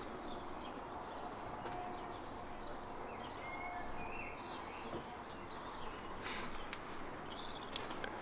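Faint garden ambience: small birds chirping in the distance now and then over a steady background hiss.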